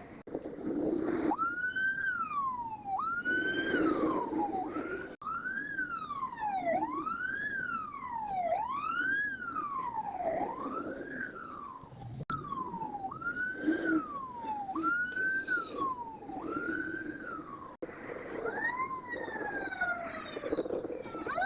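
Fire truck's electronic siren sounding. It alternates between tones that jump up and slide down, and a smooth rising-and-falling wail about every second and a half, with brief breaks a few times. Near the end the pitch drops and two tones are heard together.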